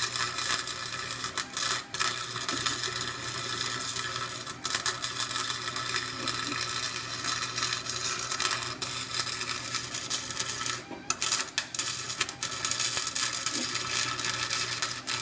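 Harbor Freight welder arc-welding a differential's spider gears together to lock the diff: a steady crackle over a low electrical buzz, broken by a few brief pauses in the weld.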